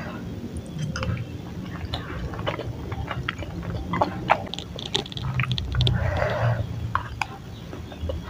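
Close-up mouth sounds of a person chewing chewy tapioca-starch balls (bakso aci and cilok): many short wet clicks and smacks, with a brief breathier noise about six seconds in.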